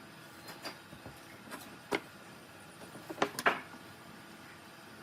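A few scattered light knocks and clicks, the loudest pair about three and a half seconds in, as of wood pieces or tools being handled at a workbench.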